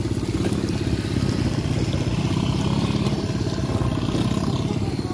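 Small motorcycle engine running steadily while travelling along the road, with a constant rush of wind and road noise.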